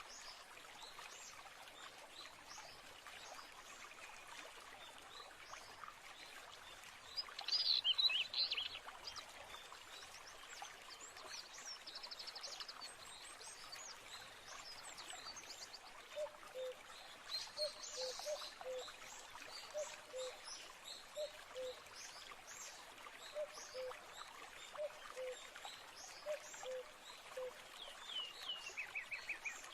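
Birds singing and calling over a steadily trickling stream. The loudest burst of song comes about eight seconds in, a low two-note call repeats through the second half, and a falling trill sounds near the end.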